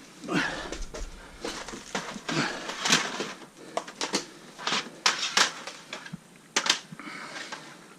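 Objects and packaging being handled and rummaged through: irregular clacks and knocks mixed with crinkling rustles.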